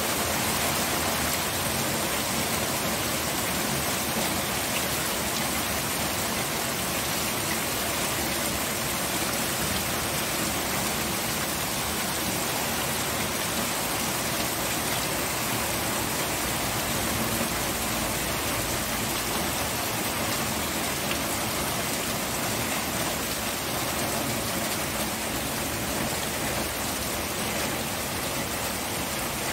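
Steady rain falling on surfaces, an even hiss of many drops with no change in intensity.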